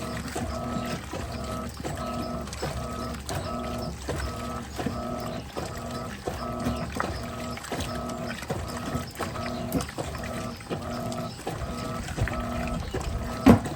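Electrolux LTP15 top-loading washing machine agitating a load: the motor hums in short back-and-forth strokes, about three every two seconds, with a click at each reversal of the agitator. A louder knock comes near the end.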